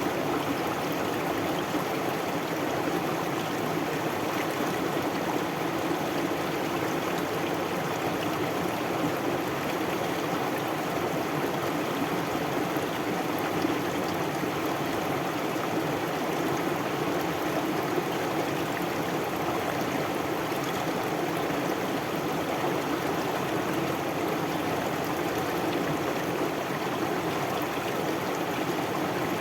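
Stream water flowing steadily over rocks, a continuous even rush and babble with no change in level.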